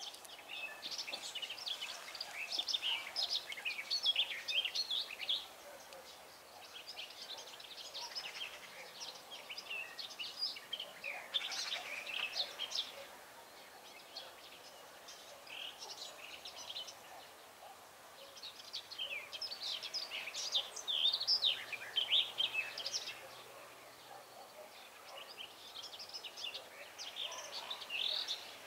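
Songbirds singing outdoors, in bouts of quick, high chirping notes a few seconds long with short pauses between, over a faint steady background of outdoor noise.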